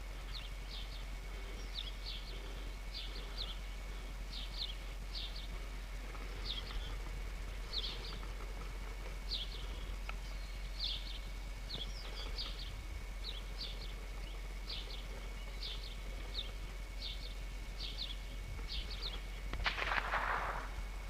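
A bird chirping over and over, short high notes about once or twice a second, with a faint steady high tone underneath. Near the end comes a louder noisy burst lasting about a second.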